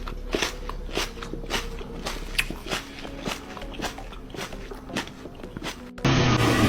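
A run of sharp, irregular clicks and taps, several a second, over a faint hum. About six seconds in it cuts off and strummed guitar music starts.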